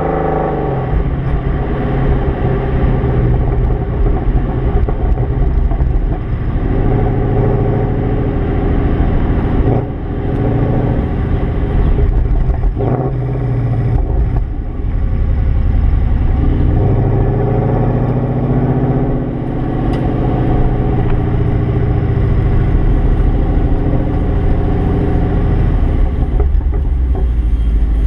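Mercedes-AMG C63's engine and exhaust while driving, with the pitch rising as it accelerates and dropping when it eases off or shifts, several times.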